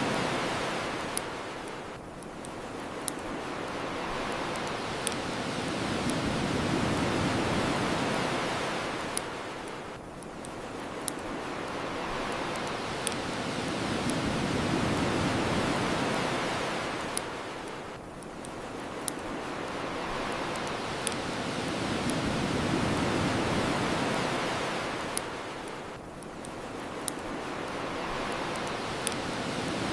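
Ocean waves washing onto a shore, swelling and falling back about every eight seconds, with sharp pops from a crackling bonfire about every two seconds.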